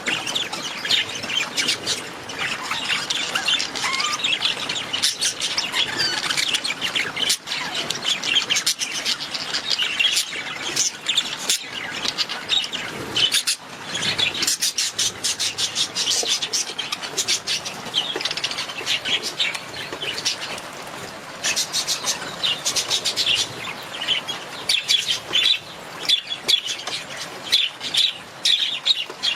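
Budgerigars chattering and chirping, a dense unbroken run of quick overlapping chirps and clicks.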